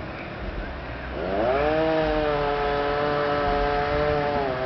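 A chainsaw revving up to full throttle about a second in and running at a steady high pitch, dipping briefly near the end.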